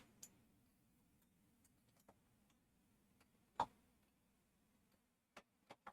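Near silence broken by a few faint clicks and taps of small plastic model parts being handled and fitted, the clearest about three and a half seconds in.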